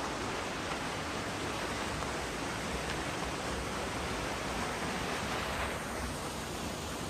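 A waterfall rushing: a steady hiss of falling water with no breaks.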